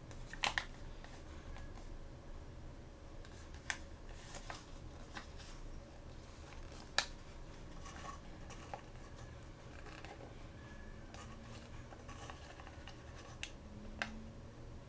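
Small plastic toy packaging being handled and opened by hand: light rustling with scattered sharp clicks and snaps, about five of them standing out.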